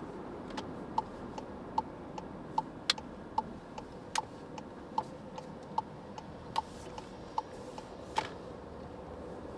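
A car's turn-signal indicator ticking in a steady tick-tock, a louder click about every 0.8 s with a softer one between, over steady road noise inside the cabin. It starts just after the beginning and stops near the end.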